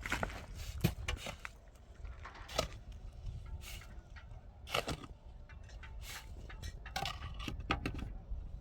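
Irregular sharp knocks and scrapes, a few clustered near the start and more spaced out after, over a low steady rumble.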